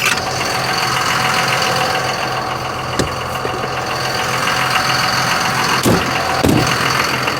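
Truck engine running steadily, with a low even hum and a few short knocks: one about three seconds in and two close together near the end.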